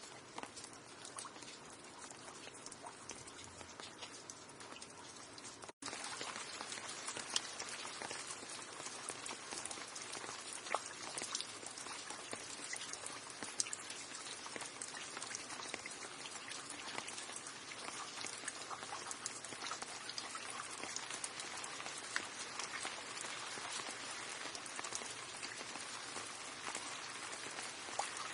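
Steady rain falling, with individual drops ticking sharply. About six seconds in it cuts out for an instant and comes back louder, as at a splice in a looped recording.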